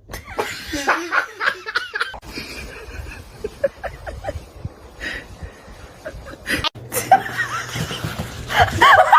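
People laughing and snickering, with a sudden break about two thirds of the way through where the sound cuts to another scene.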